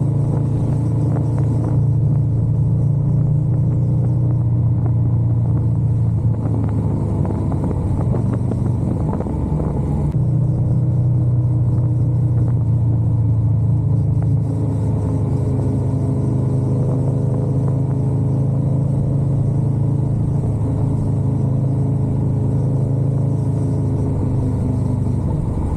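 Motorcycle engine running under way with road noise. Its pitch wavers and shifts for a few seconds a quarter of the way in, then settles into a steady note again. The sound cuts off abruptly at the end.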